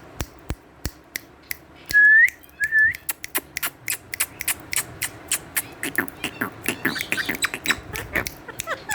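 Female Indian ringneck parrot vocalising: a stream of sharp clicks throughout, two loud whistles that bend upward at the end about two seconds in, then a burst of quick chattering chirps near the end.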